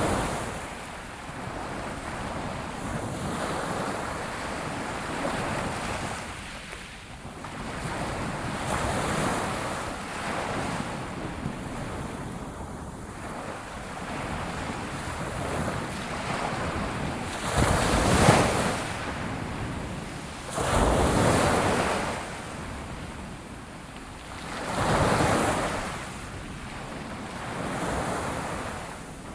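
Ocean waves breaking on a shore: a steady rush of surf that swells and ebbs, with three louder breakers in the second half, a few seconds apart.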